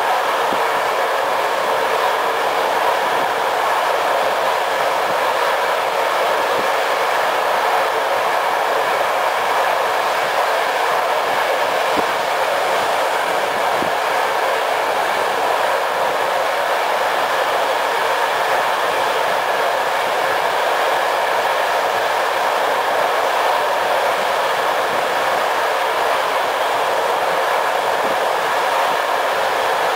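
Steady rolling noise of a passenger train coach running at speed, heard from inside the coach, with a few faint knocks of the wheels over the rails.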